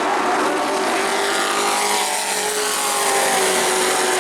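V8 engines of racing pickup trucks running at speed on an oval track, with one passing by so that its engine note falls in pitch.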